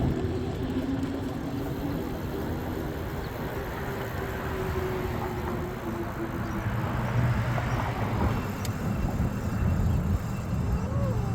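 A motor vehicle's engine hum fading away over the first few seconds as it moves off, followed by steady road traffic noise.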